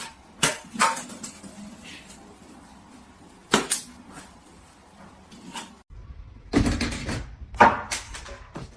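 A series of short, sharp knocks and clatters, one or two at a time, with a low background hum coming in about six seconds in and the loudest knocks after it.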